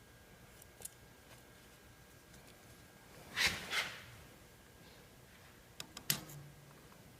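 Hand tools and parts being handled during log splitter assembly: a few faint scattered clicks, a louder short rattle about three and a half seconds in, and a couple of sharp knocks about six seconds in.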